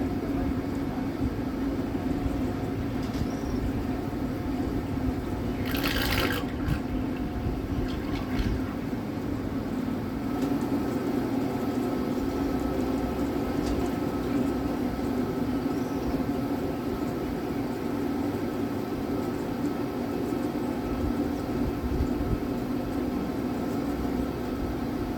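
Water sloshing and rushing along a boat's hull, with a steady low hum underneath and a brief sharper sound about six seconds in.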